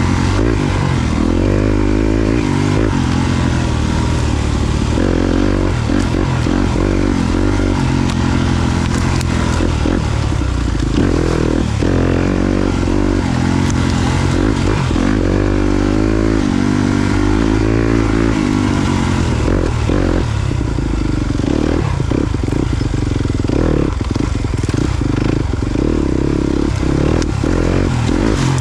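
Yamaha YZ250FX dirt bike's 250cc single-cylinder four-stroke engine, ridden off-road. The revs rise and fall continuously as the throttle is worked on and off.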